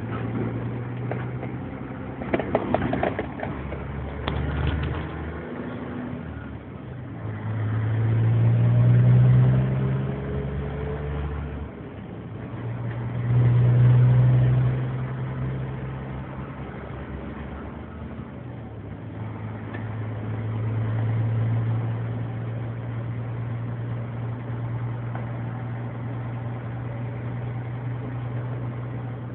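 Scania 124 L 360 truck's six-cylinder diesel engine running. Its revs rise and fall twice, around eight and fourteen seconds in, and rise more gently around twenty-one seconds, between stretches of steady idle. A few sharp knocks or clicks come in the first few seconds.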